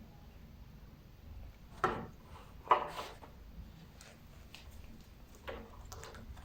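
Two short knocks about two and three seconds in, the second one louder, followed by lighter taps and rustles: a cat batting and chasing a toy across the floor.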